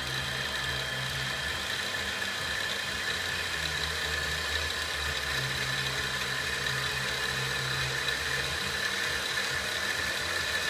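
A 7x10 mini lathe's spindle and motor running steadily, a high motor whine over a low hum.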